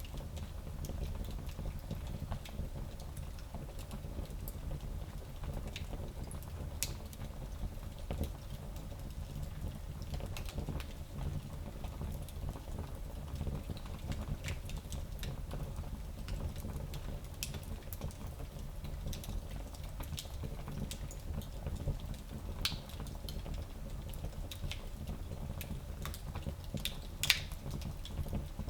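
Wood fire burning in a small fireplace: a steady low rumble of the flames with scattered crackles and pops, the loudest pop near the end.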